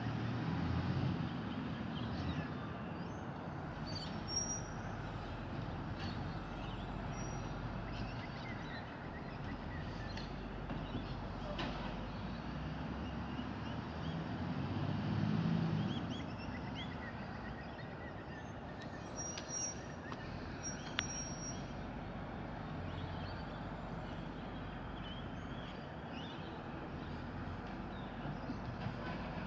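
Vehicle engine running in the street, a steady rumble that swells louder twice, most strongly about halfway through, with birds chirping faintly.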